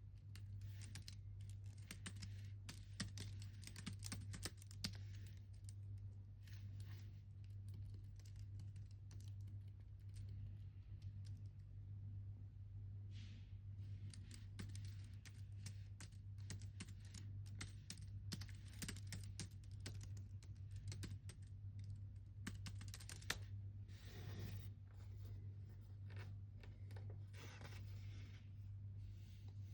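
Computer keyboard typing in irregular flurries of keystrokes with short pauses, over a steady low hum.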